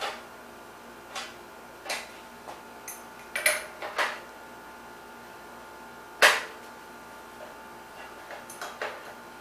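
Hand tools clinking and clanking on the front axle and hub of a bicycle as the front wheel is taken off, in irregular sharp metallic knocks. The loudest clank comes about six seconds in, and there is a quick run of lighter clicks near the end.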